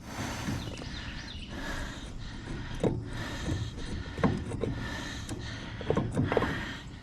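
Scattered light knocks and clinks of the Tulsa 34 winch's brake cam and parts being worked into place between the brake bars, over a steady background hiss.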